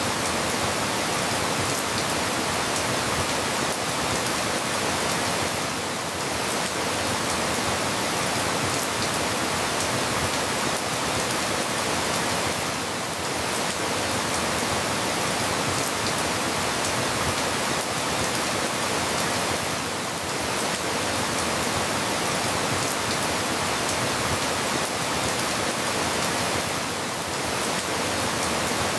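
Steady rain falling, an even hiss of many drops, with a slight lull about every seven seconds.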